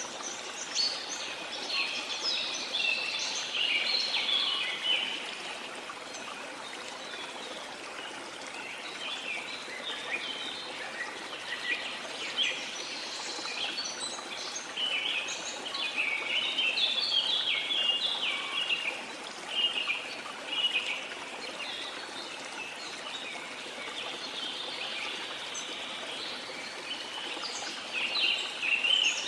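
Many small songbirds chirping and twittering busily over a steady wash of sea water; the chirping thins out for a few seconds now and then and thickens again.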